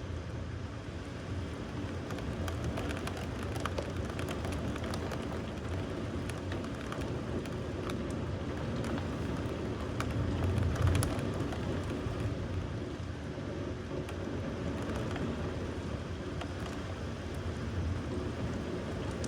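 Thunderstorm: steady rain with scattered drops ticking and a low rumble underneath. The rumble of thunder swells louder about halfway through.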